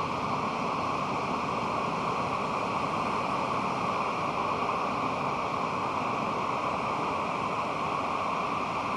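Pacific Ocean surf: a steady, even wash of breaking waves with no single crash standing out.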